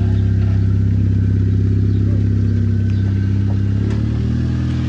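Honda Civic EG engine idling loudly and steadily; about four seconds in the idle drops slightly in pitch and level.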